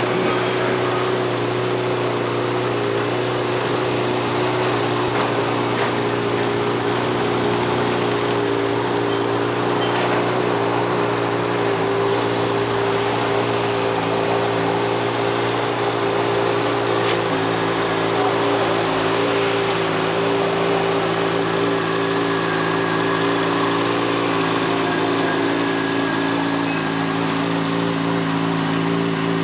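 2007 Honda CBR600RR's inline-four engine idling steadily, its pitch holding level throughout.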